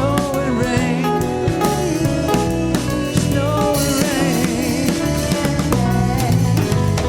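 Full band playing without words: drum kit, bass, guitars and piano, with a lead melody that bends and wavers in pitch above the band.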